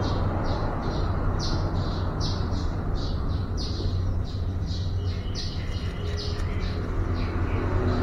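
A bird chirping over and over, two or three short high chirps a second, over a steady low background rumble.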